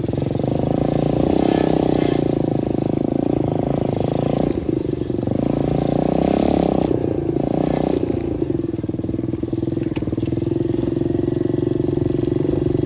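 125cc dirt bike engine running while riding a trail, its note shifting in steps a few times as the throttle and gears change.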